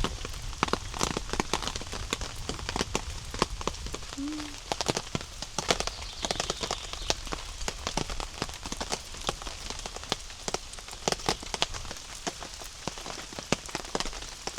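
Heavy rain falling on a camp shelter, with many separate drops hitting close by in an irregular, dense run over a steady low rumble of rain.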